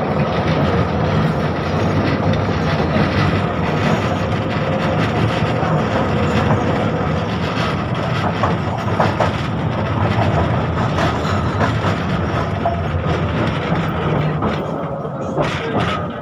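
KTM-5M3 (71-605) tram running along the track, heard from inside the car: a steady rumble of wheels on rails with a faint steady whine through the first few seconds. The noise eases off near the end as the tram slows.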